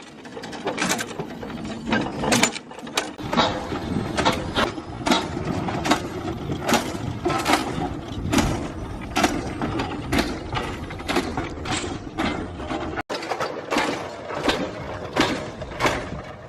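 Steam locomotive engine running, with a regular beat of sharp strokes about twice a second over a steady rumble.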